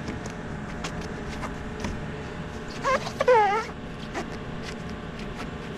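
A dog whining briefly twice, about three seconds in, the pitch wavering and falling, over light scattered clicks and taps.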